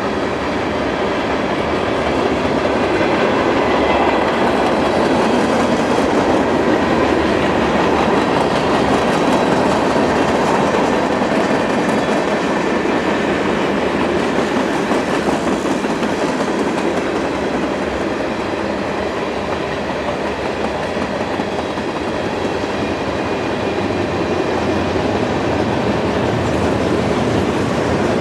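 A train rolling past on the rails, its cars making a steady, loud running noise that swells and eases a little over the passage.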